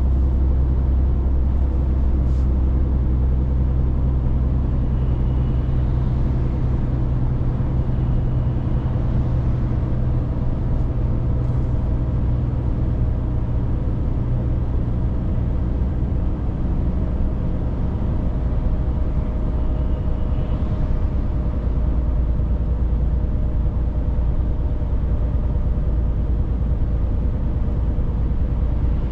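Scania 500S truck driving along: a steady deep engine drone with road noise, whose low engine note shifts about halfway through.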